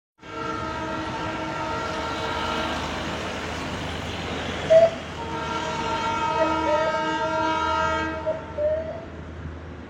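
Darjeeling Himalayan Railway diesel locomotive's horn sounding two long, steady blasts: the first lasts about four seconds, and the second starts after a short sharp knock about five seconds in and lasts about three seconds.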